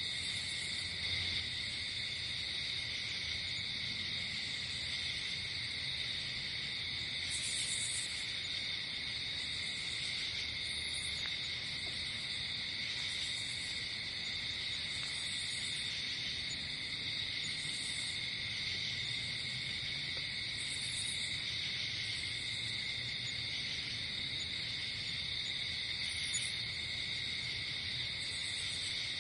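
Night insect chorus of crickets: a steady, unbroken high chorus, with shorter, higher chirps coming in every couple of seconds.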